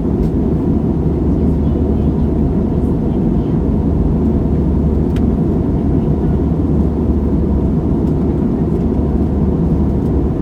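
Steady low rumble of engine and airflow noise inside a jet airliner's cabin in flight, with a faint click about five seconds in.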